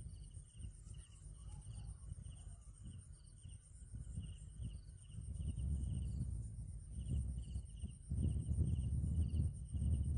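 Low rumble of wind buffeting the microphone, swelling loudest near the end, over short high chirps repeating about twice a second.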